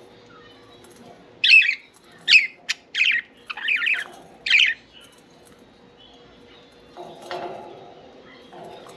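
Pet budgerigars calling: a quick run of about six loud, short, harsh chirps and squawks in the first half, with quieter chatter later on.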